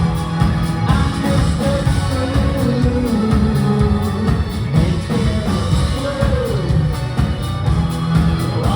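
Live pop-rock band playing with a lead vocal over drums and guitars, heard through a venue PA on an audience recording.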